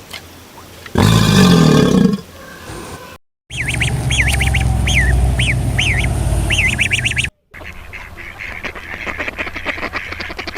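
A string of animal calls split by two abrupt cuts: a low, pitched roar about a second in, then a run of high calls that rise and fall over a few seconds, then rapid, rhythmic honking from a flock of waterfowl.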